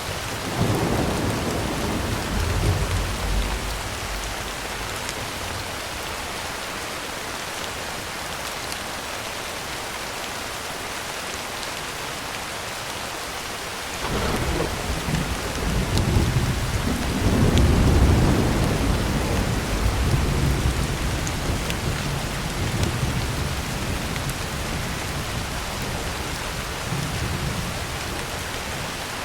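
Heavy rain drumming steadily on a tin roof, with two rumbles of thunder: a short one right at the start that fades within a few seconds, and a longer one that begins about halfway through, swells, and dies away slowly over some ten seconds.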